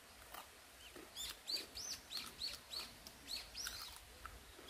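A bird chirping over and over, short high notes about three a second, starting about a second in, with a few faint crunches of crisp scorched rice (nurungji) being chewed.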